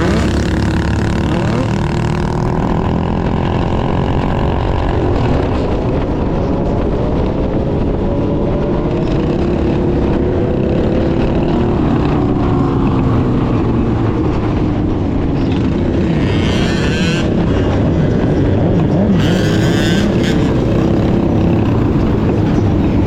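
Small motorbike engines running on a ride, their pitch rising and falling as the throttle opens and closes, over a constant low rumble. Two short high hissing bursts come in the second half.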